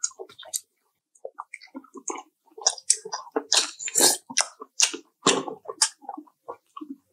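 People chewing and biting into fried chicken: a run of irregular crunches and mouth smacks.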